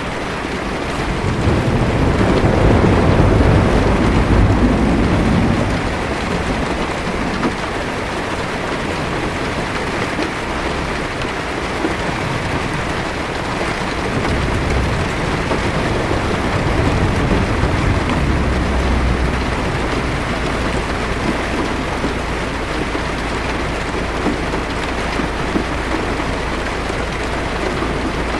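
Heavy rain falling on a car's roof and windshield, heard from inside the car, a steady hiss. A low roll of thunder swells about two seconds in and fades out by six seconds, with a fainter low rumble midway through.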